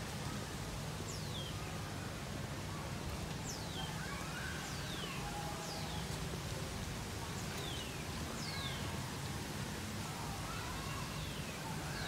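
Birds calling outdoors: short, sharply falling high whistles, about eight of them spaced roughly a second apart, over a steady low hum.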